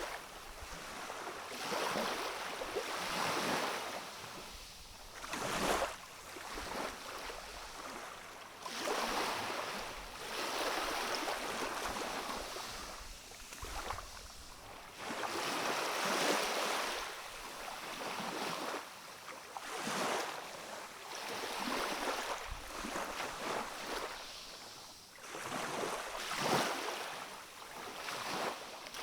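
Calm sea waves washing and lapping along a rocky shore: a hiss of water that swells and ebbs every second or two, with a few sharper splashes.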